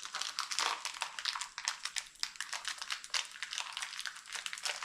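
Plastic packaging crinkling and rustling in a run of quick irregular crackles as a small new motorcycle part is unwrapped by hand.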